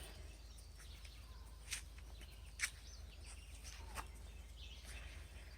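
Faint outdoor ambience with three sharp clicks spread through it, about a second apart.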